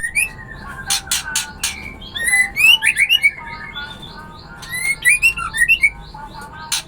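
Songbird calling: quick runs of chirps and short whistled notes mixed with sharp clicky calls, in two busy bursts with a lull near the middle.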